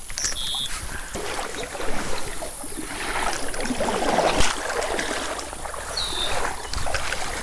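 Shallow river water sloshing and splashing, as from someone wading through it. There are two short, high chirps, one near the start and one about six seconds in.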